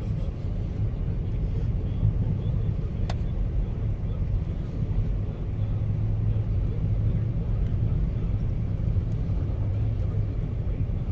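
Car driving along, a steady low rumble of engine and road noise, with a single sharp click about three seconds in.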